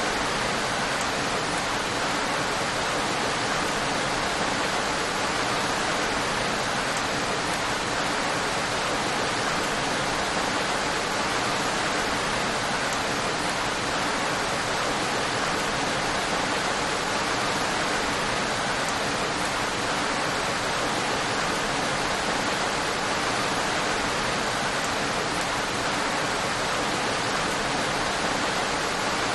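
Steady, heavy rain falling, an even hiss with no thunder or breaks.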